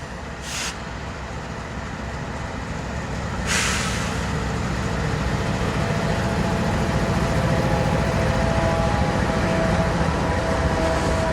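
Diesel freight train approaching, its low rumble growing steadily louder, with a brief burst of hiss about three and a half seconds in and faint steady tones from the wheels or engines in the second half.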